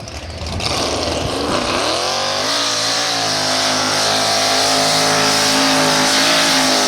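Mud bog race truck's engine revving hard: it climbs in pitch from about half a second in, holds at high revs, then backs off suddenly at the very end.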